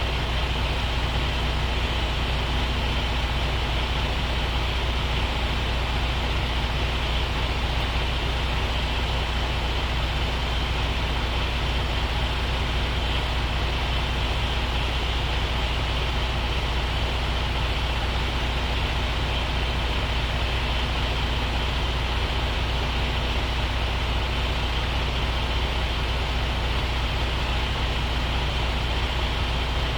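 A truck's diesel engine running steadily, a deep even drone with no change in speed.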